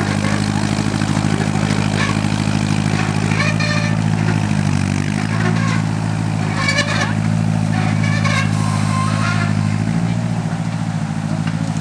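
Tractor engine running steadily under way, its pitch dipping briefly about halfway through and again near the end.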